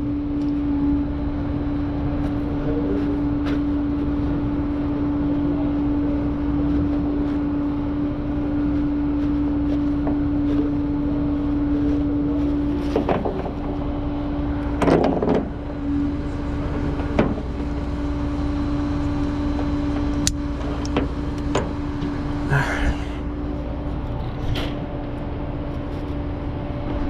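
A vehicle engine running steadily at idle, with a constant low hum that drops out briefly about halfway through. A few short knocks and distant voices sound over it.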